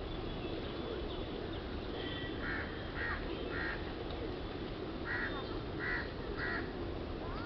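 A bird calling in two runs of three short calls, about half a second apart, over steady low background noise.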